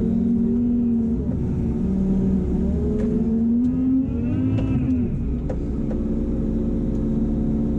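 Kramer loader's diesel engine running under hydraulic load while the shear grab works, its speed rising and falling and peaking about four to five seconds in, then settling to a steady speed. A few sharp clicks.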